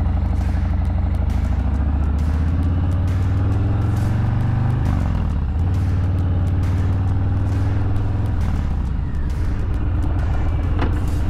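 Harley-Davidson Low Rider S's Milwaukee-Eight 117 V-twin running through a Bassani 2-into-1 exhaust while riding. The revs climb for a couple of seconds, drop at a gear change about five seconds in, hold steady, then ease off after about eight seconds.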